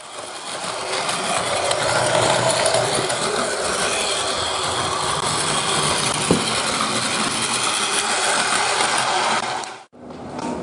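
Train running: a steady noise that builds over the first two seconds, with a single sharp click partway through, and cuts off abruptly near the end.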